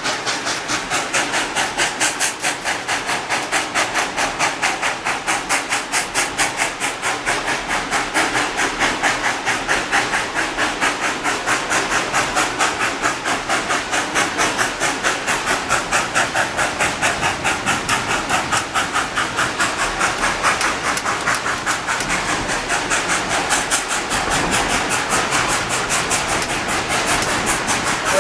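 Steam locomotive working along the track with a steady, rapid exhaust chuff of about four beats a second, with a hiss of steam throughout.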